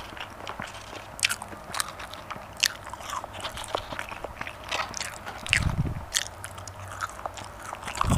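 Close-miked eating: biting and chewing soft potato pieces, with many sharp wet mouth clicks and smacks. A dull low thump comes a little past the middle.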